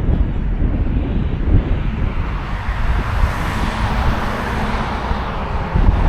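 A passing road vehicle whose tyre and engine noise swells to a peak about three and a half seconds in and then fades, over a steady low rumble.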